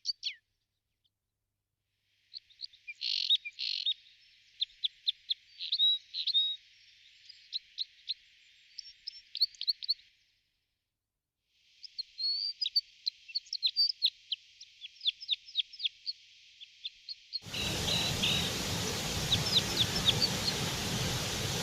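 Small birds chirping: rapid, high, short chirps and trills in two stretches broken by brief silences. Near the end, a steady hiss of noise sets in under the chirping.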